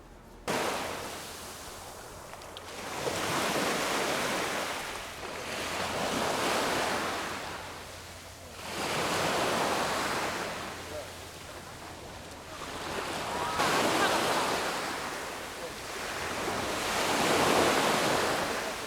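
Sea waves breaking on a shore, the surf swelling and falling back five times, about every three to four seconds.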